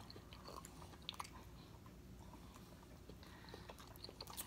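Faint chewing and eating mouth sounds from a seafood boil, with scattered small clicks.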